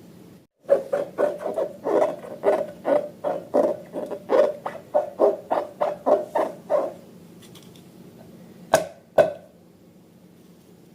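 Slime being squeezed and worked by hand: a rapid run of squelches, about three a second, for some six seconds. Two sharp clicks follow near the end.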